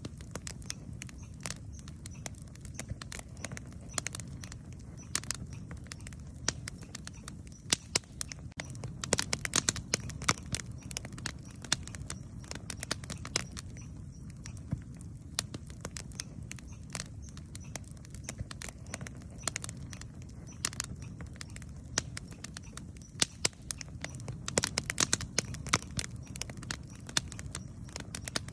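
Campfire wood burning, crackling with irregular sharp pops that come thicker in a couple of short flurries, over a steady low rumble.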